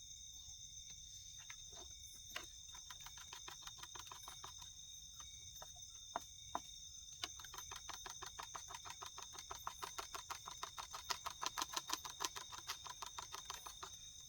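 Steady high-pitched insect drone in the forest, with a long run of rapid, regular clicks, about five a second, that grows louder through the middle and fades near the end.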